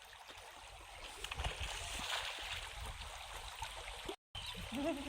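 Faint water flowing in a stream, a steady low wash, which cuts out for a moment about four seconds in.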